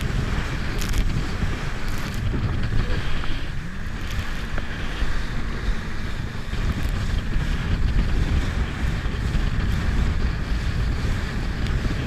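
Jet ski running on the water, with heavy wind noise buffeting the microphone and splashing water.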